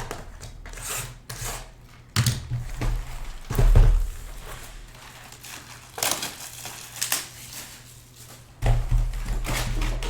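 Crinkling and rustling of card-box packaging being handled, with a few short knocks.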